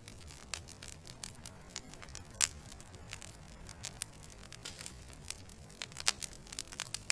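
Wood fire with burning logs crackling: irregular sharp pops and snaps, a few louder ones about two and a half seconds in and about six seconds in, over a low, steady rush of flame.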